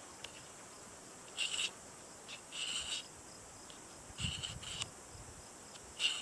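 Insects chirping in short buzzy bursts about every second and a half, over a faint steady high hiss.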